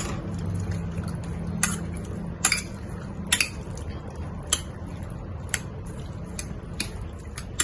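Marinade being poured over raw chicken pieces and mixed in a bowl: wet mixing sounds with short sharp clicks of utensil or bowl about once a second, over a steady low hum.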